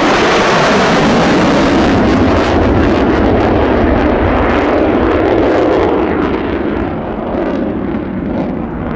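Loud jet noise from a Lockheed Martin F-35A Lightning II's single Pratt & Whitney F135 turbofan engine as the fighter passes, easing off gradually from about six seconds in.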